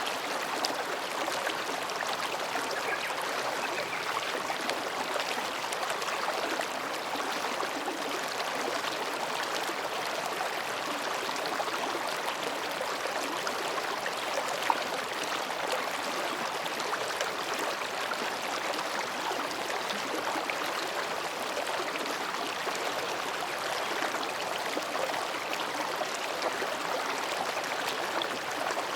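Mountain stream babbling steadily over and between rocks, with one brief click about halfway through.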